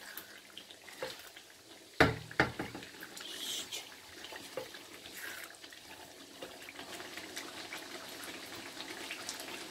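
Chicken karahi sauce frying in a wok while a spatula stirs and scrapes it, with a sharp knock about two seconds in.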